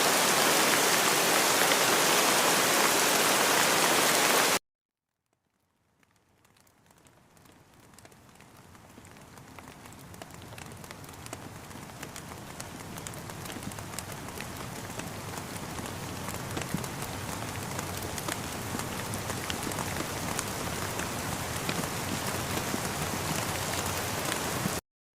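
Steady rain hiss that cuts off abruptly about four and a half seconds in; after a second of silence, softer rain with distinct drop taps fades in slowly, building up, and cuts off suddenly near the end.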